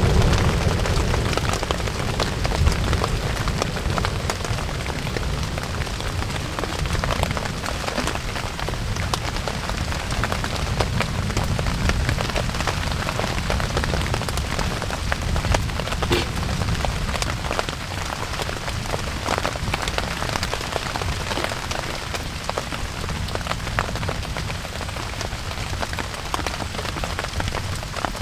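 Steady rain, with a dense scatter of individual drop hits over a low rumble.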